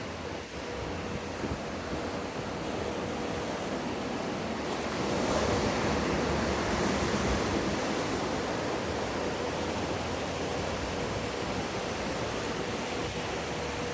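Wave pool surf: a wave breaking and rushing water, swelling louder about five seconds in, with a faint steady hum underneath.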